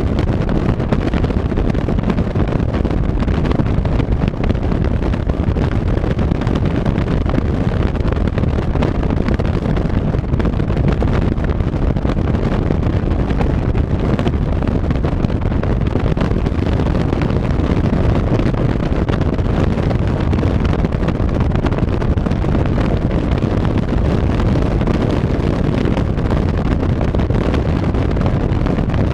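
Steady wind rush buffeting the microphone over the low, even drone of a vehicle under way, engine and road noise at a constant pace.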